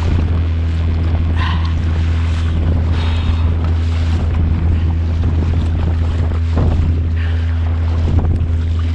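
Heavy wind buffeting the microphone as a steady low rumble, over the wash of waves and water around a kayak at sea.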